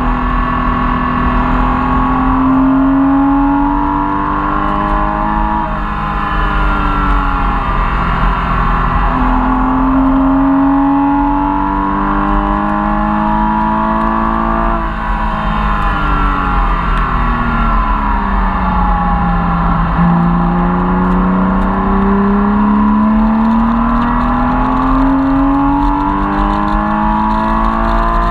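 Porsche Cayman S engine heard from inside the cabin while lapping a race track. Its pitch climbs under acceleration, drops back, climbs again, falls slowly for several seconds past the middle as the car slows, then climbs steadily once more near the end, with road and wind noise underneath.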